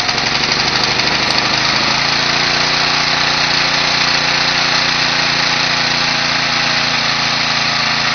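Small gasoline engine of a lawn edger running steadily. Its speed wavers for the first couple of seconds, then holds even.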